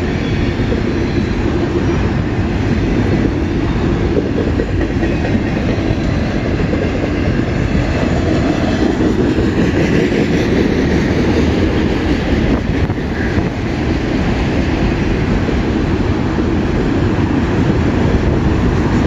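Autorack cars of a long Canadian National freight train rolling past, steel wheels on the rails making a steady rolling noise.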